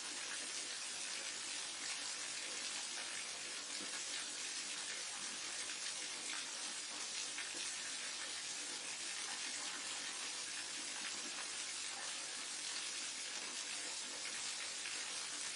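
Forest waterfall pouring steadily into a mountain stream: an even, unbroken rush of falling water with a bright hiss.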